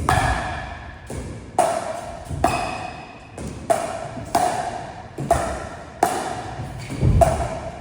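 Pickleball paddles hitting a plastic pickleball back and forth in a quick rally of dinks and volleys. There are about eight sharp, ringing pocks, roughly one a second, each with a short echo.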